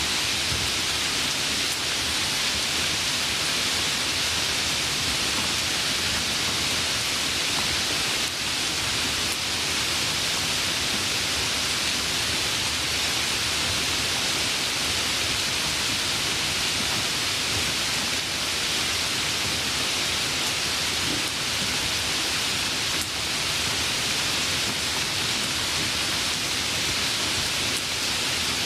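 Steady, dense rainfall: an even hiss of many drops with no let-up or single distinct drips.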